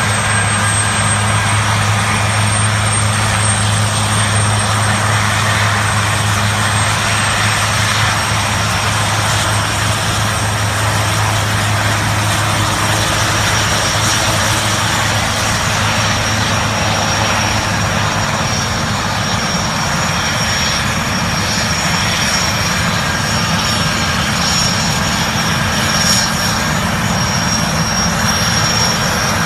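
Military helicopters' turbine engines and rotors running steadily during takeoffs. A low hum fades out about halfway through, and a high turbine whine comes in.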